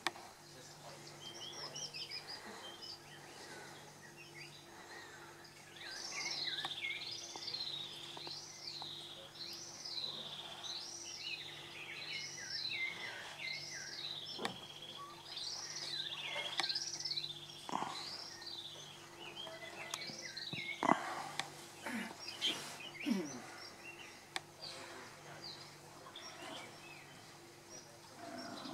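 A bird whistles a note that rises and falls over and over, about once a second, from about six seconds in until about eighteen seconds in, with other birds chirping here and there over a faint steady low hum. A few sharp clicks come about twenty-one seconds in.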